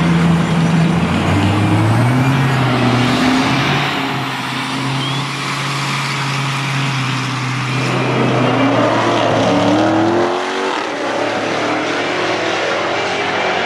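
A Dodge Challenger's supercharged V8 running at the drag-strip start line, then accelerating hard off the line with a rising pitch before falling away.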